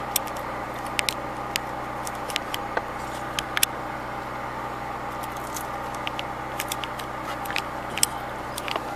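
Car engine idling steadily with no revving, alongside scattered light clicks and taps.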